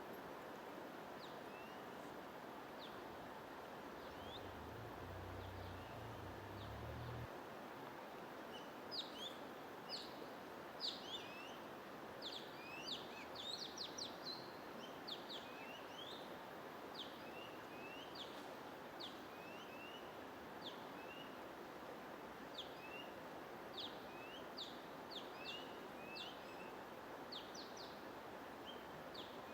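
Songbirds chirping over a steady hiss of white noise: short, high, falling chirps, sparse at first and then coming thick and fast from about a quarter of the way in. A brief low rumble sits under it early on.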